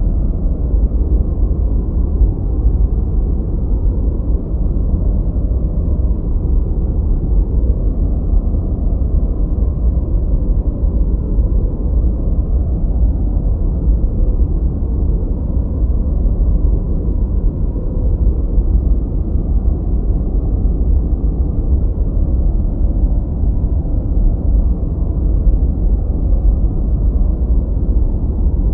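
Continuous generated noise track, steady and unchanging, deep and low with almost nothing in the treble.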